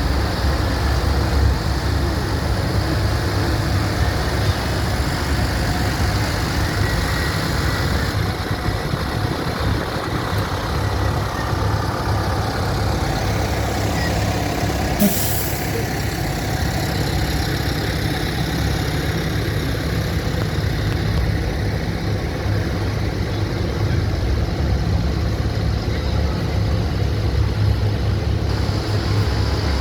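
Tractor engines running steadily with a low rumble, with a short hiss about halfway through.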